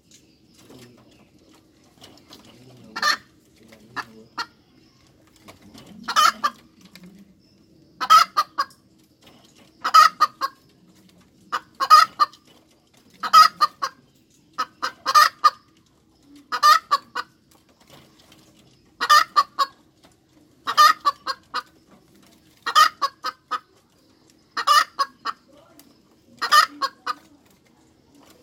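Hen cackling: a run of loud, clipped cackle calls, each a quick burst of several notes, repeating about every two seconds from about three seconds in.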